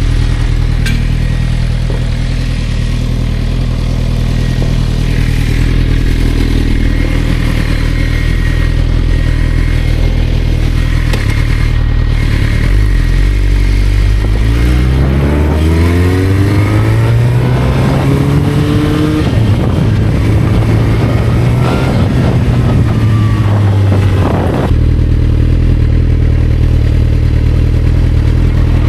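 Motorcycle engine running steadily at low revs, then rising in pitch as it revs up about halfway through, holding higher revs for several seconds, and dropping back to a steady low-rev run near the end.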